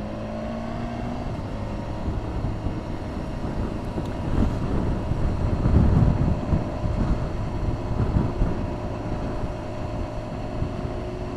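Motorcycle engine running under way, mixed with steady wind rush on the microphone; the engine note rises a little in the first second as the bike pulls away.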